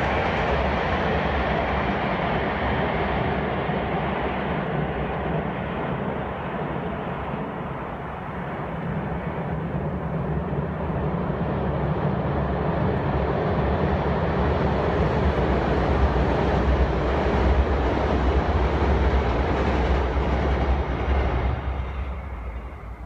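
Long freight train of tank and container wagons rumbling steadily across a railway bridge over a river. The noise dies away about a second before the end as the last wagons clear the bridge.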